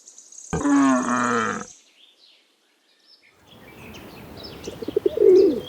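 A camel's groaning call, lasting about a second and starting about half a second in. After a short silence, faint outdoor ambience with birds chirping and a low coo near the end.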